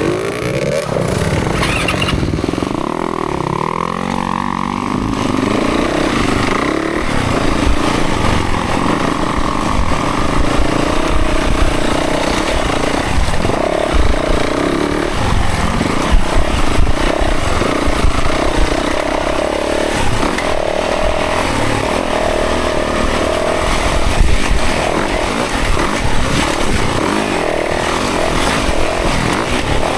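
Dirt bike engine being ridden, its pitch rising and falling again and again with the throttle.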